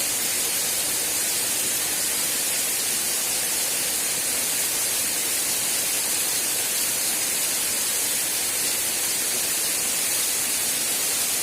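Waterfall: a steady, unbroken rush of falling water, with a bright hiss.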